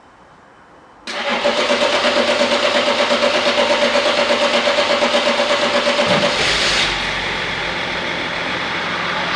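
Diesel engine in a BMW E39 being turned over by the starter after its fuel system has been bled: about five seconds of rhythmic cranking. About six seconds in it catches, with a short rev, and settles into running.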